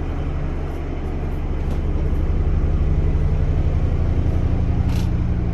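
A large engine running with a low, steady drone that grows a little louder over the first couple of seconds.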